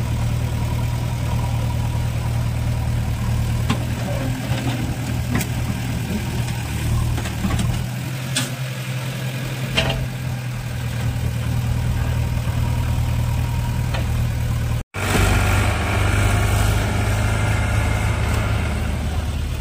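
Diesel tractor engine running steadily at idle, with a few light clanks. About fifteen seconds in, the sound cuts out for an instant and then returns slightly louder.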